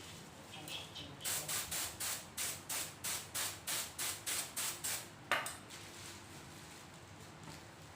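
A quick run of rhythmic rubbing or scraping strokes, about three a second for some four seconds, followed by a single sharp knock.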